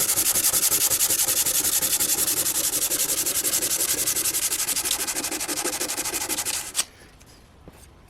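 Sanding on a cleaver with an abrasive: a fast, even run of scratchy strokes that stops suddenly about seven seconds in, ending with a sharp click.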